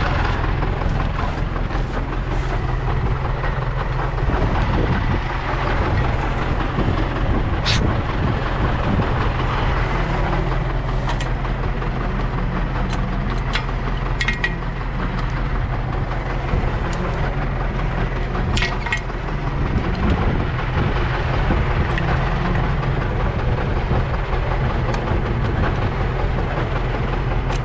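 A vehicle engine running steadily at an even speed, with a few brief clicks or rattles over it.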